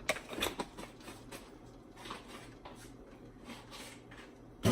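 Lemon pepper seasoning being shaken out of its shaker over a pot: a run of soft, irregular rattles and taps, ending in a sharper knock.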